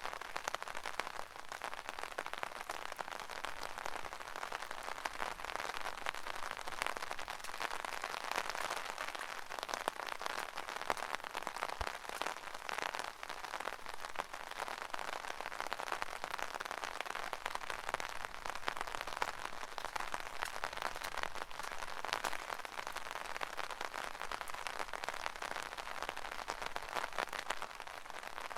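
Rain falling on an umbrella, heard from underneath it: a dense, steady stream of countless small drop hits that never lets up.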